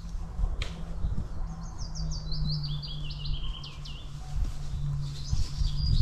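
A songbird singing a phrase of short, falling notes that step down in pitch over about two seconds, starting about a second and a half in, with more high twittering near the end. A steady low rumble runs underneath, and there is a single sharp click early on.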